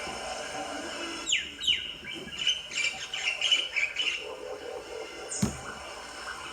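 Rose-ringed parakeet (Indian ringneck) calling: a quick run of sharp, falling squawks lasting about three seconds, starting about a second in. A single knock follows near the end.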